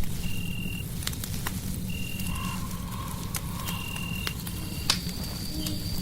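Fireplace fire crackling with a steady low rumble and scattered sharp pops, the loudest pop about five seconds in. Over it is a layer of night nature sounds: a short high chirp repeating about every two seconds, a held whistling tone through the middle, and a higher held tone near the end.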